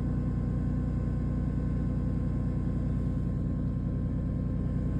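2010 Dodge Charger's 2.7-litre V6 idling steadily shortly after a cold start, with the noise of a timing chain. It runs pretty good, with no misfire heard.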